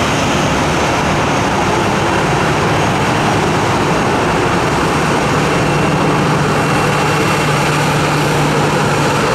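Jet airliner engines running with a steady loud rush, a low steady hum growing stronger about three seconds in.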